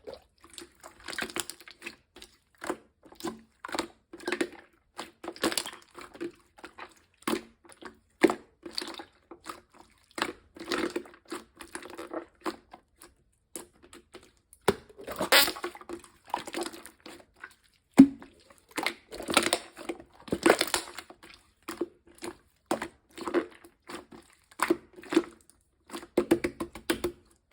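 Clear slime being squeezed, folded and stretched by hand, giving a run of irregular sticky clicks, pops and crackles. Louder bursts come about halfway through and again a few seconds later.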